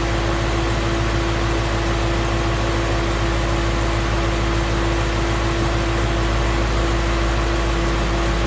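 2016 Ford Mustang's 5.0 L Coyote V8 idling steadily while it warms up after a cold start. It runs smoothly, with no tick out of the ordinary that the owner can hear.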